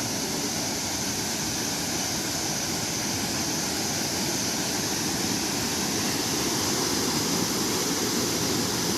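Steady rushing of Davis Falls, a waterfall pouring into its gorge, growing slightly louder toward the end.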